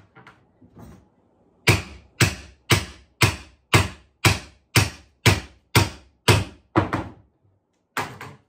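A run of about eleven sharp, evenly spaced blows on a wooden floorboard, about two a second, then two more blows near the end, as the board is worked loose.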